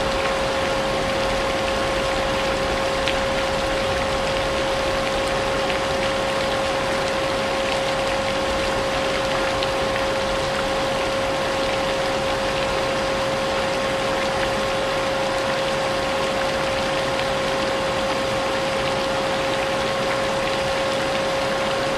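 Vacuum cleaner running steadily, a constant motor whine over an even hiss, mixed with falling rain.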